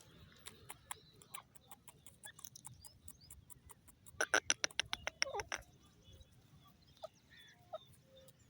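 Grey francolin calling: a rapid run of loud, sharp notes lasting about a second and a half, starting about four seconds in, with softer scattered notes before it and a few faint chirps after.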